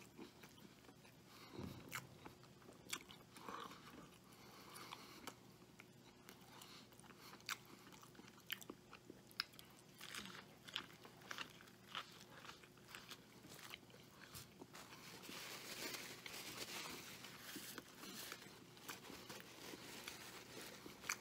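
Faint sounds of a man chewing and biting into a Wendy's Triple Baconator bacon cheeseburger, with many small scattered mouth clicks.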